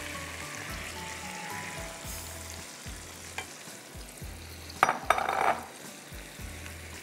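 Sliced tomatoes sizzling in hot oil in a wok as they are stirred with a spatula, just after going into the pan. The sizzle and stirring get briefly louder about five seconds in.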